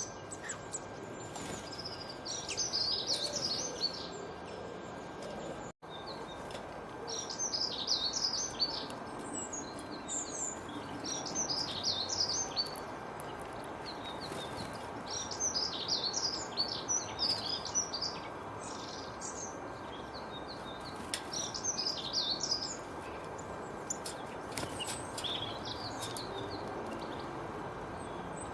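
Songbirds singing, short bursts of high chirping phrases every second or two over a steady background hiss. The sound cuts out for an instant about six seconds in.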